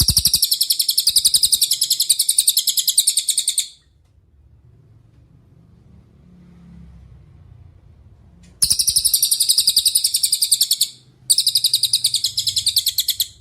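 Cililin songbird singing in three bursts of a rapid, even trill of high notes, about ten a second. The first burst runs for nearly four seconds. After a pause, two more follow close together in the second half.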